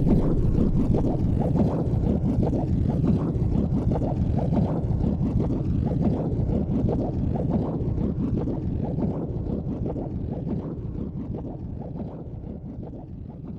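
Low rumbling wind buffeting the microphone, fading steadily toward the end.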